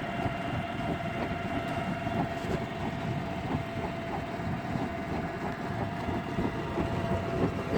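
Commercial horizontal drum washing machine running: a steady rumble with light clatter and a constant hum.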